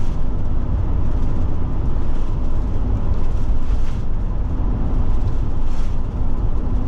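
Forest River Forester motorhome cruising on the road: a steady, even drone of engine and tyre noise, heaviest in the low rumble.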